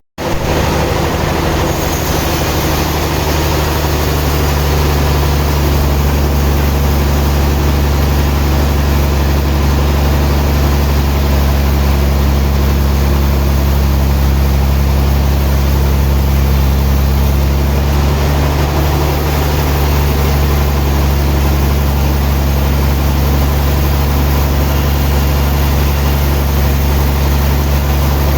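Sawmill machinery running steadily, a loud, even engine-like drone with a deep hum.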